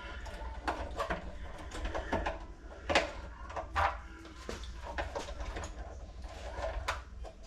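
Irregular clicks and knocks of hand work on tools and fittings, over a steady low hum.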